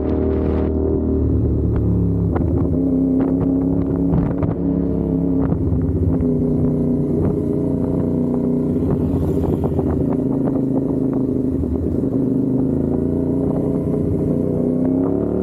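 CFMOTO 450SR's parallel-twin engine running under way. The note holds fairly steady with small swells, then rises in pitch near the end as the throttle opens.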